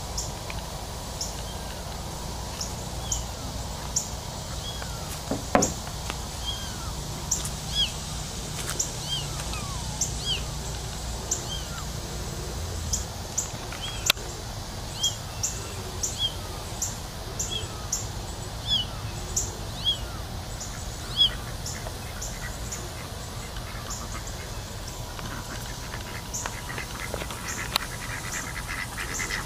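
A small bird repeatedly giving short, high chirps, roughly one a second, over a steady low background rumble. Mallard ducks start quacking near the end.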